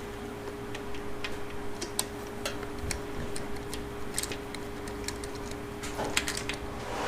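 Scattered light metallic clicks and ticks of hand tools working the starter mounting bolts, irregularly spaced, over a steady low hum.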